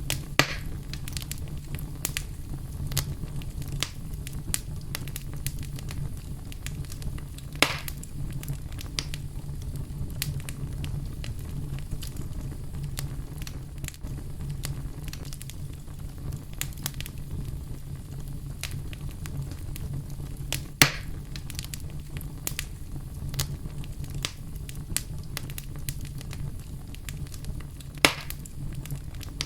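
Wood fire burning in a fireplace: a steady low rumble with a scatter of small crackles and a few louder pops, the loudest about two-thirds of the way through.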